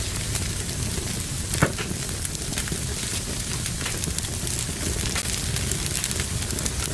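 Wood fire burning in a fireplace, crackling steadily with many small snaps over a low rumble, and one sharper pop about one and a half seconds in.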